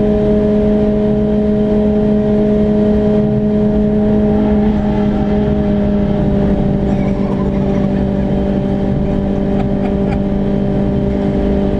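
Renault Clio RS engine running hard at high, nearly constant revs, heard inside the stripped, roll-caged cabin together with road noise; the pitch dips slightly about five seconds in, then holds.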